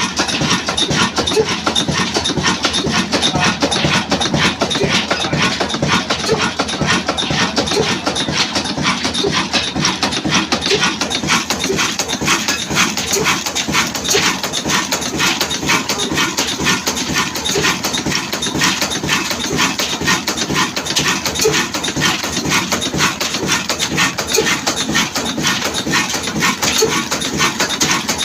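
Desi-built Ruston Hornsby-type slow-speed diesel engine running steadily at around 300 rpm, its exhaust and valve gear beating in an even, repeating rhythm.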